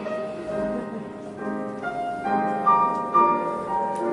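Instrumental music with a piano playing, the notes changing about every half second.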